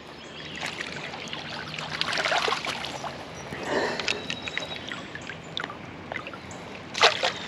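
Water splashing and trickling, with scattered small clicks and knocks, as a hooked bass is brought to a landing net in shallow creek water. A brief louder splash comes near the end.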